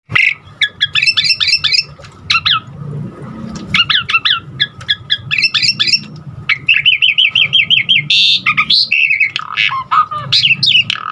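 Asian pied starling (jalak suren) singing a loud, varied song of chirps, whistles and harsh squawks, with a quick run of repeated notes about seven seconds in and falling whistles near the end.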